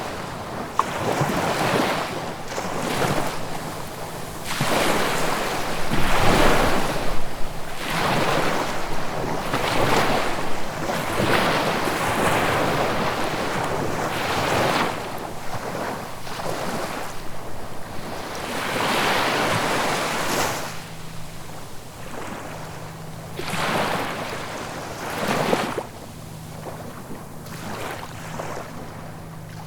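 Sea waves breaking and washing up the shore, swelling and falling in irregular surges every few seconds. A faint low steady hum comes and goes underneath.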